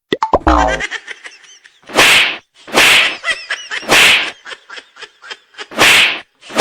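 Cartoon comedy sound effects: a low thud, then a run of loud swishing whooshes about a second apart, with clicks and short squeaky chirps between them.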